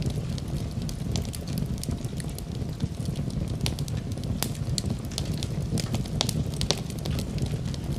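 Fireplace fire crackling: a steady low rumble of the flames with frequent, irregular sharp pops and snaps.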